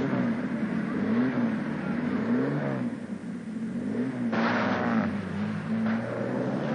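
Jaguar D-Type racing car's straight-six engine running hard, its pitch repeatedly rising and falling as it revs and changes gear, louder and harsher for about a second just past the middle.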